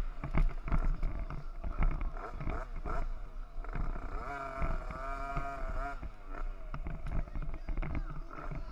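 Small motocross bike engines revving, their pitch rising and falling as the bikes run around the track. One engine holds a high, wavering note from about four to six seconds in.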